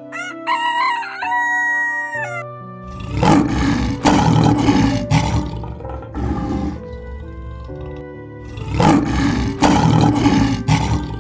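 A rooster crows once, then a lion roars in two long, rough bouts a few seconds apart, over background music with steady held notes.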